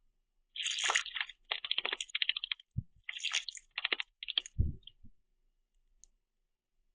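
A common starling splashing in a shallow bird bath, beating its wings in the water in several quick flurries of spattering splashes over about four seconds, with a couple of dull low thuds among them.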